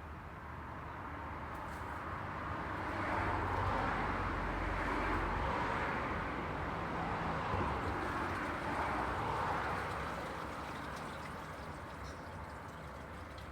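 Road traffic passing: a rush of tyres and engines that builds over the first few seconds, holds with a low rumble, and eases off near the end.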